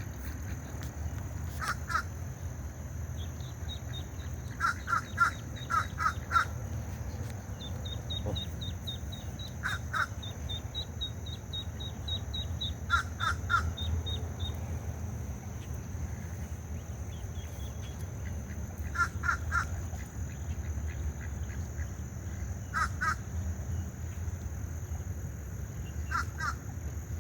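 Crows cawing in short runs of two or three caws, repeated every few seconds. A fast run of high ticks sounds through the first half, over a steady high-pitched hum and a low rumble.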